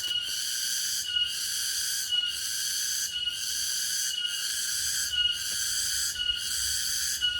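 Cicada calling: a steady, high-pitched buzzing song that breaks briefly about once a second.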